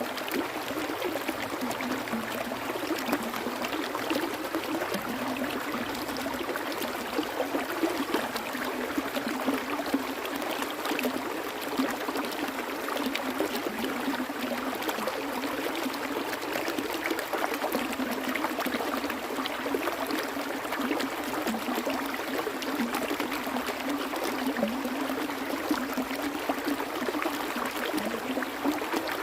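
Water flowing steadily in a stream: a continuous rushing with many small splashes and trickles.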